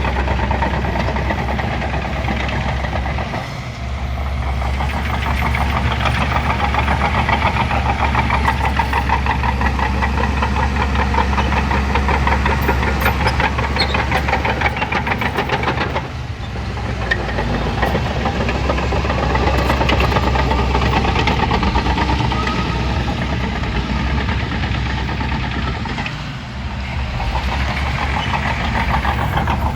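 Diesel engine of a Shantui crawler bulldozer running steadily while it works, its sound dipping briefly three times.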